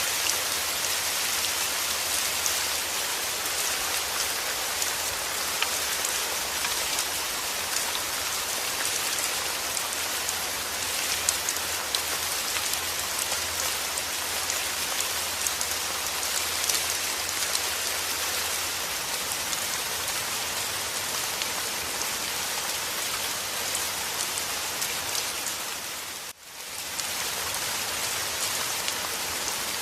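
Steady rain falling, an even hiss of dense raindrop patter. About 26 seconds in it briefly dips almost to nothing, then comes straight back.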